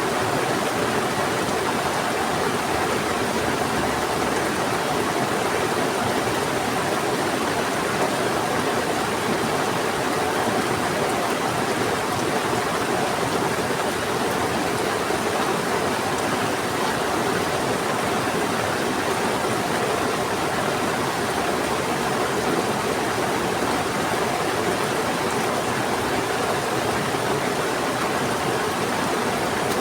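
Heavy rain together with a swift-flowing river rushing. The noise is even and unbroken throughout.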